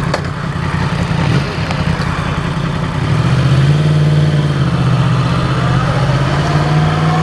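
Yamaha MT-10's crossplane inline-four engine, with an Akrapovič muffler, riding slowly; the engine note climbs about three seconds in, gets louder, then holds steady.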